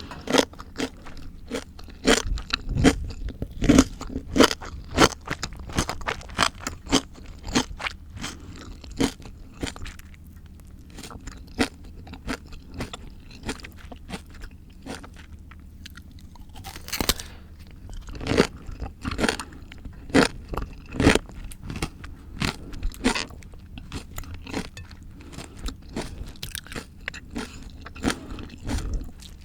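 Raw, crunchy fruit and vegetables being bitten and chewed close to the microphone: a run of sharp crunches that thins out about ten seconds in, with loud bites again after about seventeen seconds.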